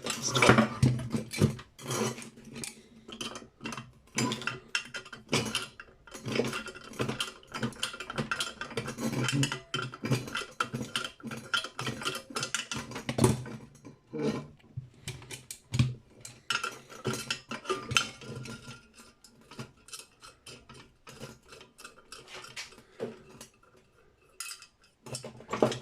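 Metal parts of a brass light fitting clinking, rattling and scraping against each other and against hand tools in irregular clatters as the fitting is worked apart by hand.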